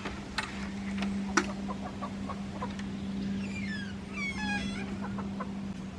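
Hens clucking, with a run of several falling calls about three to five seconds in. A steady low hum and a few sharp clicks run underneath.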